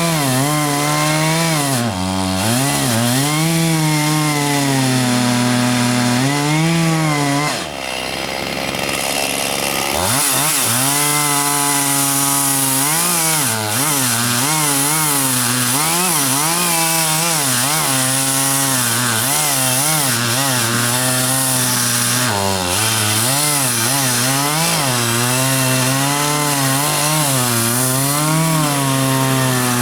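Chainsaw running hard, its engine pitch rising and falling continuously as it revs. About eight seconds in the engine note drops away for roughly two seconds, then picks back up.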